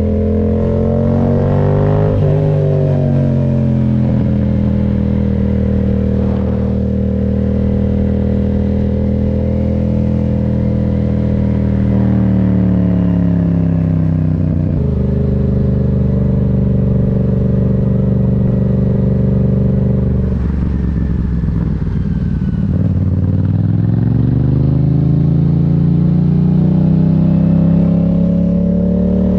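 Yamaha MT-07's 689 cc parallel-twin engine under way. The revs climb, then the pitch drops with a gear change about two seconds in. It runs steadily for a while, steps down again about halfway, goes quiet and rough off the throttle around twenty seconds in, then rises steadily through the revs under acceleration.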